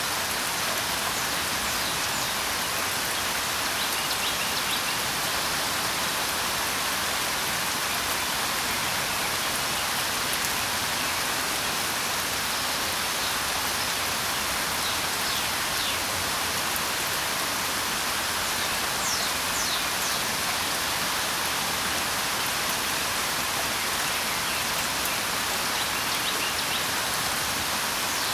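Steady rain falling, an even hiss with no breaks, with faint short bird chirps now and then.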